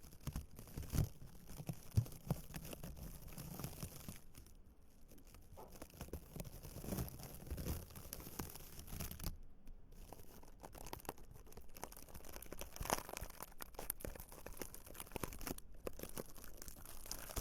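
Dried flowers rustling and crackling as they are handled close to the microphone: a continuous, irregular run of light crisp scratches and crinkles.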